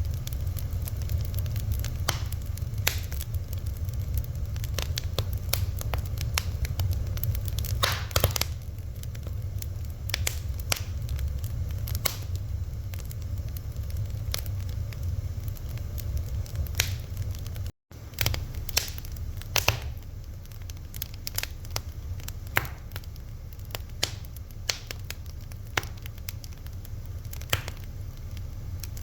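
Fire crackling: irregular sharp pops and snaps over a steady low rumble, with a momentary cut to silence about eighteen seconds in.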